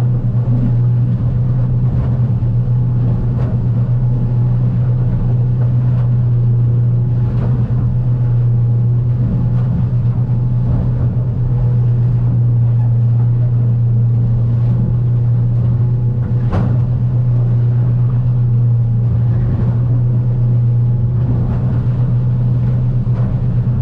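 Outboard motor of an aluminium boat running steadily underway, a strong low drone, with a few brief knocks now and then, typical of the hull meeting chop in rough water.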